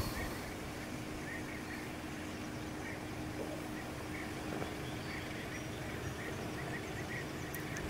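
Steady outdoor background noise with a faint steady hum, over which short bird chirps repeat every second or so.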